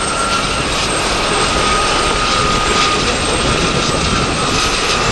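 Aircraft engine noise from an air display, a steady loud noise with a thin, steady whine running through it.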